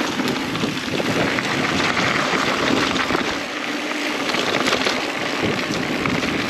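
Mountain bike riding a dirt trail: steady tyre and wind-rush noise on the microphone, with small clicks and rattles from the bike.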